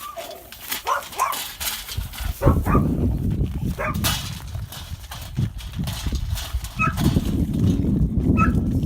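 An animal eating, with a run of crunchy chewing clicks and a few brief high squeaks. A low rumble builds in a couple of seconds in.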